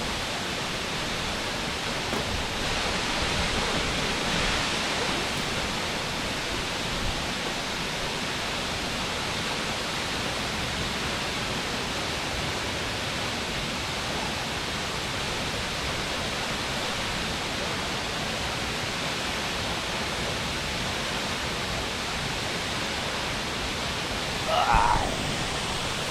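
Aber Falls, a 120-foot waterfall, crashing into its rocky pool: a steady, even rush of falling water. A brief louder sound comes near the end.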